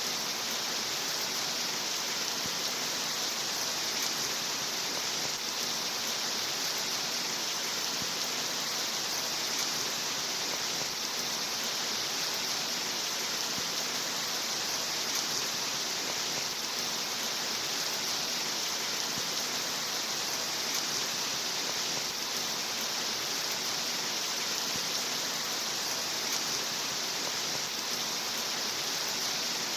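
Steady rain: an even, unbroken hiss with no distinct drops or thunder standing out.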